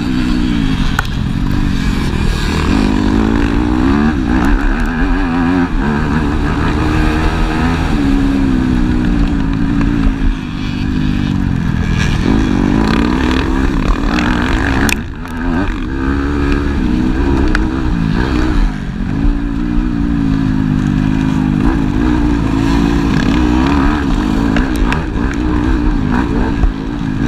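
Motocross bike engines revving up and easing off over and over, the pitch rising and falling every second or two, with a brief drop about fifteen seconds in.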